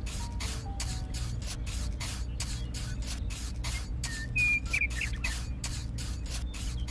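Small hand trowel scraping and smoothing wet cement in quick, even strokes, about three or four a second, over a low steady hum.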